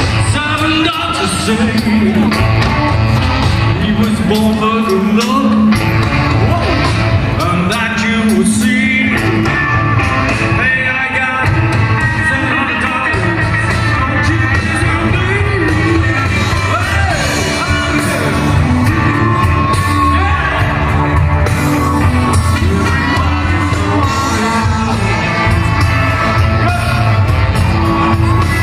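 Live blues band playing an upbeat number with a singer, over steady bass notes and drums.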